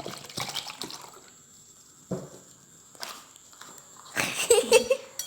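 Liquid being poured and splashing into a cup, with scattered small drips and clinks and a louder splash about four seconds in.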